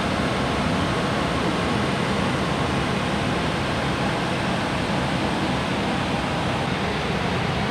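Steady rushing cockpit noise of an Airbus A321 in cruise: air streaming past the nose and windshield together with the air-conditioning flow, even and unchanging throughout.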